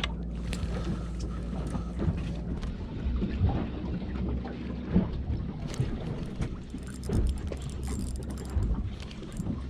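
A boat's motor running steadily at low revs, with wind on the microphone and scattered knocks and clicks of gear.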